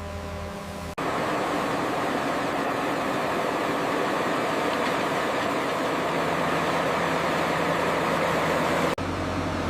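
Engines of heavy road-construction machinery running steadily. The sound cuts abruptly about a second in to a louder, noisier run, then cuts back to a lower hum near the end.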